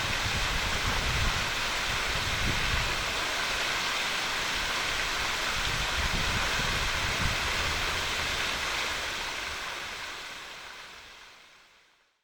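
Waterfall rushing: a steady roar of falling water that fades out over the last few seconds.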